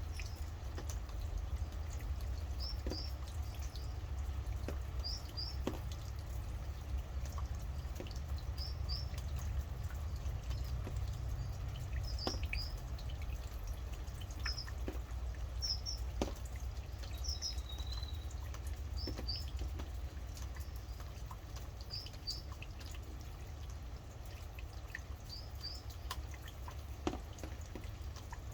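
Rain dripping, with scattered individual drops over a steady low rumble. A small bird repeats a quick high double chirp about every two seconds, with one short lower whistle partway through.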